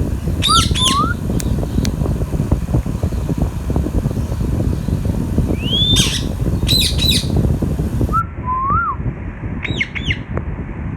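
Indian ringneck parakeet calling in four short groups of shrill chirps and gliding whistles, one with a rising whistle about halfway through. A steady low rumbling noise runs underneath.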